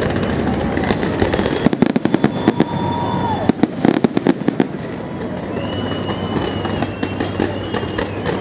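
Fireworks going off: rapid crackling bangs in dense bunches through the first half. In the second half the cracks thin out and a long, high, slightly wavering whistle is heard.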